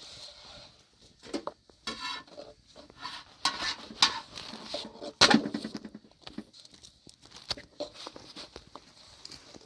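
Irregular knocks, taps and light clatter, with the loudest knock about five seconds in.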